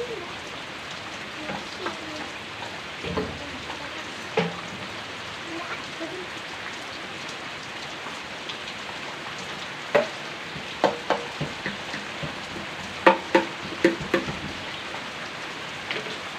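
Heavy rain falling in a steady hiss, with separate louder drops splashing close by now and then, several in quick succession in the second half.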